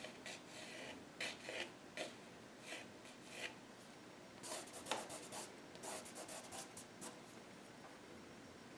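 Paintbrush strokes laying acrylic paint onto the painting: short, faint scratchy brushing sounds, scattered at first, then a quick run of strokes in the middle.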